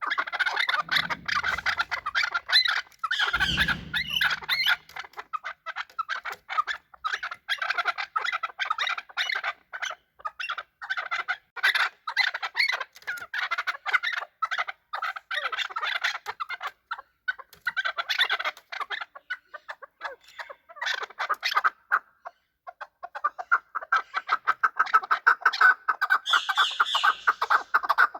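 Chukar partridges calling: a rapid, continuous run of clipped chuck notes, many to the second. A brief low rumble comes a few seconds in.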